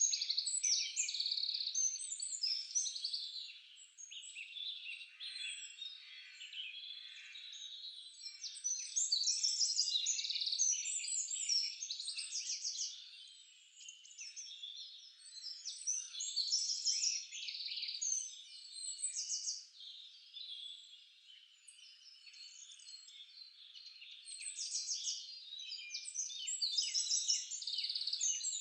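Forest birds singing together in a dense chorus of overlapping high chirps and fast trills, growing louder and softer by turns.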